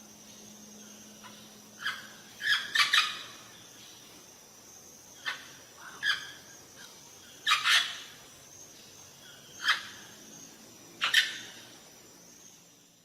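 Birds calling: about ten short, sharp chirps or squawks at irregular intervals, some in quick pairs.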